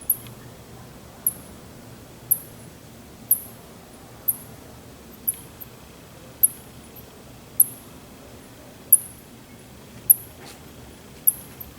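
Bat calling with short, very high-pitched chirps, about one a second at an even pace, eleven in all, each a quick note that slides slightly downward.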